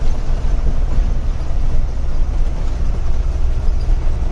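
Loaded truck driving, its engine and road noise heard from the cab as a steady low rumble.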